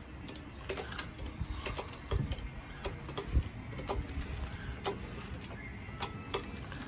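Irregular metallic clicks and knocks from an engine hoist with a rebuilt Buick 3.8 V6 hanging from it as the engine is lifted and moved, with a few dull thumps near the middle.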